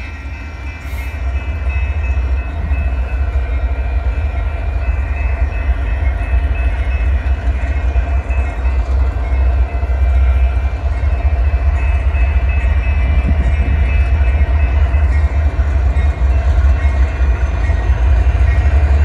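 Union Pacific diesel locomotives rumbling as they roll slowly up to a grade crossing, with the activated crossing signal's bell ringing steadily over the engine noise.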